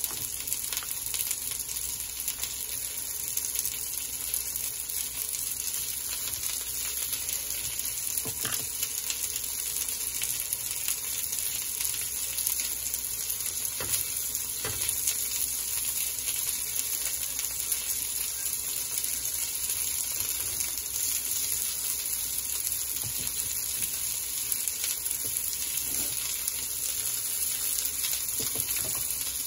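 Chicken kababs shallow-frying in a little oil in a pan, giving a steady sizzle, with a few light taps now and then.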